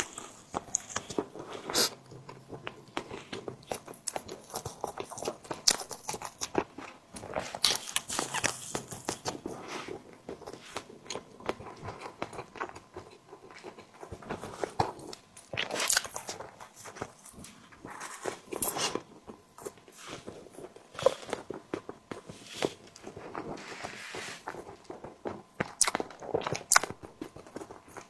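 Close-miked eating of a tiger skin dessert: biting and chewing, with many short, irregular mouth clicks and smacks.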